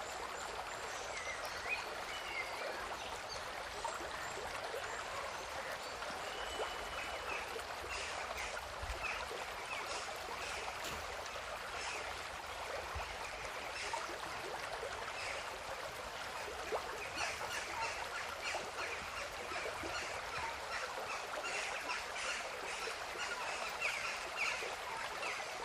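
River water running and trickling steadily, with many short, sharp high sounds over the second half.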